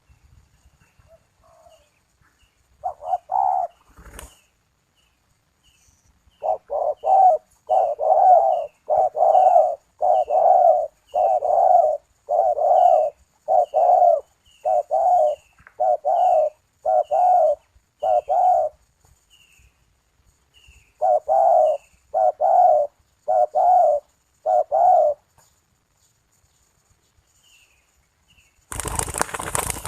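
Puter dove cooing in runs of short, repeated coos, about one and a half a second, with a pause and then a shorter run of five; a small bird chirps faintly at a higher pitch alongside. A sharp click comes about four seconds in, and a rush of noise starts near the end.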